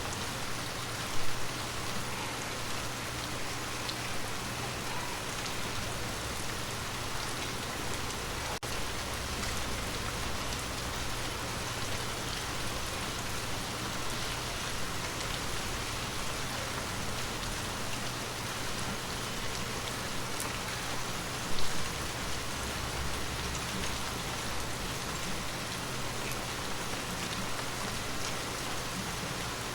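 Many water drops tapping on a glass surface in a steady, rain-like hiss, with two single louder taps, one about a second in and one about two-thirds of the way through.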